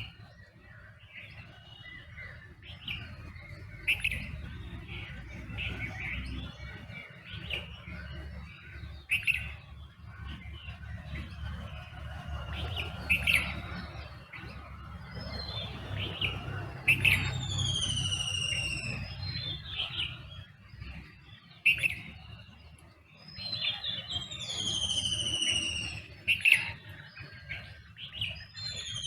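Morning chorus of several wild birds: sharp chirps every few seconds and a clear whistled note sliding down in pitch, heard three times, over a steady low rumble.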